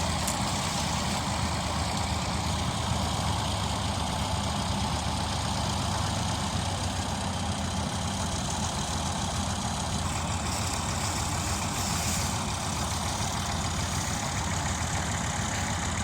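Tractor diesel engine running steadily, with no change in speed.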